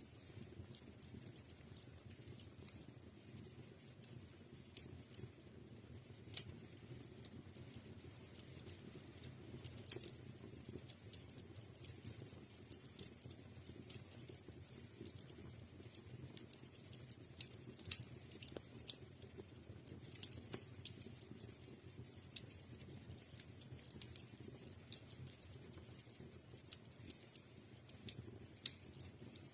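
Wood fire crackling in a fireplace: irregular sharp pops and snaps over a faint, steady low rustle of the flames.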